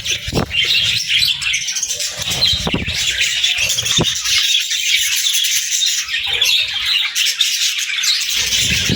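A flock of budgies (budgerigars) chirping and warbling in a continuous, dense high chatter. A few low thumps come near the start, around 3 seconds and near the end, and a sharp click comes about 4 seconds in.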